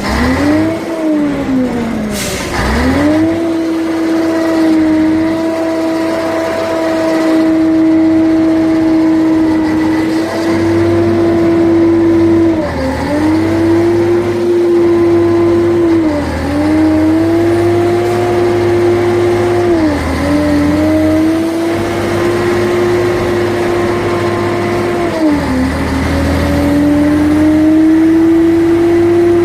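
Scania 113 truck's six-cylinder diesel engine being revved: a few quick rev blips in the first seconds, then held at high revs for stretches of several seconds, with the revs dipping briefly and climbing back now and then.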